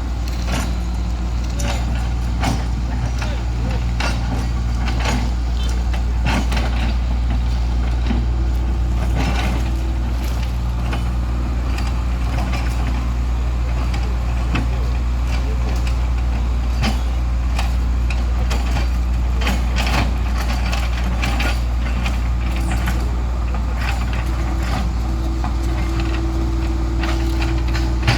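Heavy truck's diesel engine running steadily at low revs, with scattered clicks and knocks over it.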